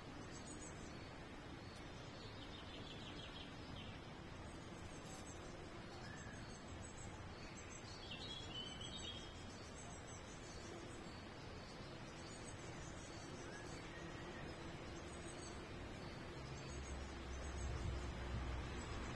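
Small birds chirping faintly, short high calls scattered over a steady outdoor background hiss. A low rumble builds near the end.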